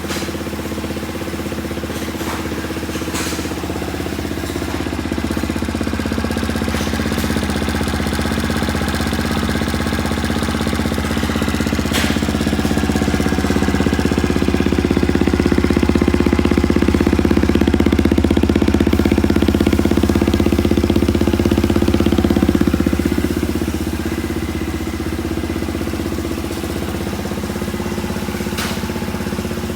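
Suzuki GS50's 49 cc single-cylinder four-stroke engine idling steadily. It gets somewhat louder through the middle and eases back toward the end, with a few faint clicks.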